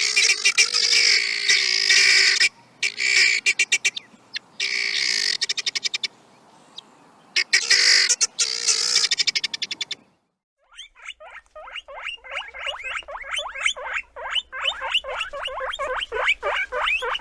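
Animal calls: loud, shrill squeals in repeated bursts. After a short break about ten seconds in, a different fast run of short chirps follows, about five or six a second.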